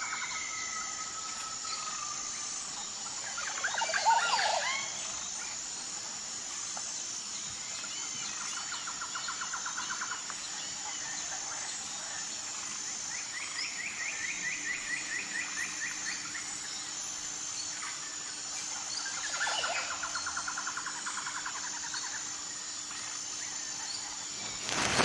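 Wild birds calling and trilling over a steady, high insect chorus. A louder cluster of bird calls comes about four seconds in, and rapid trills follow a few times later.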